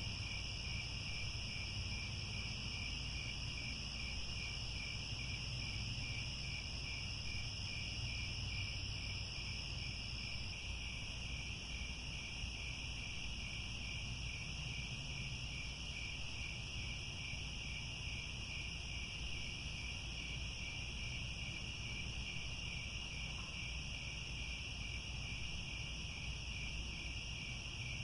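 A chorus of crickets trilling steadily at several overlapping pitches, the lower trill with a fine regular pulse. A faint low rumble runs underneath.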